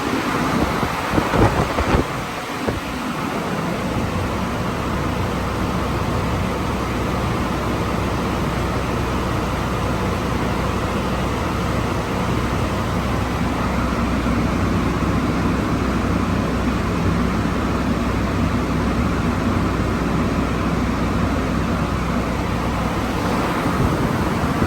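Car engine running at a steady speed with a constant low hum under a wash of road or air noise, after a few sharp knocks in the first two seconds.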